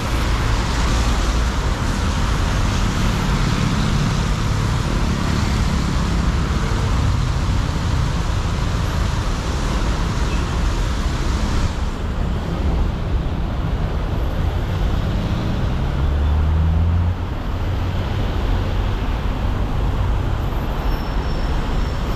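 Busy road traffic on a wet street: engines and tyre hiss. The hiss thins out about halfway through, and a large vehicle's engine passes close near the end.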